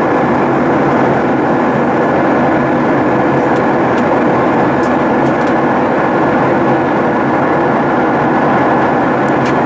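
Boeing 737-800 in flight, heard from inside the cabin: its CFM56-7B jet engines and the airflow make a loud, steady rushing noise with a constant low hum underneath.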